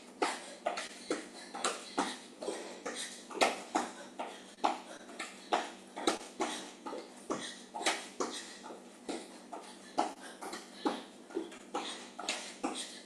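Feet in running shoes landing on the floor during jumping jacks: a steady run of short thuds, about two to three a second.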